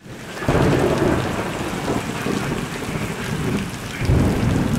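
Heavy rain pouring down, with low thunder rumbling. The rumble swells about half a second in and again near the end.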